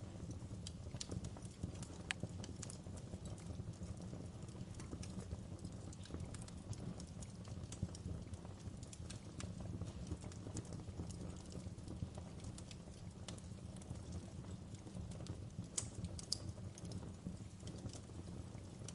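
Wood fire burning in a fireplace: a steady low rush of flame under irregular crackles and small pops from the burning logs, a few sharper pops standing out.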